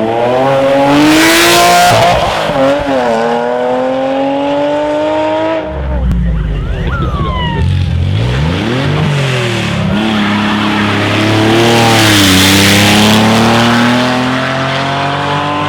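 Rally cars driven flat out past the microphone, engines revving hard and climbing through the gears in repeated rising runs. Loud swells of tyre and loose-surface noise come about a second in and again near the end.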